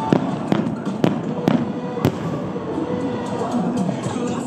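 Fireworks display: aerial shells and ground-fired volleys bursting. A sharp bang comes about every half second over the first two seconds, over continuous crackling and rumble.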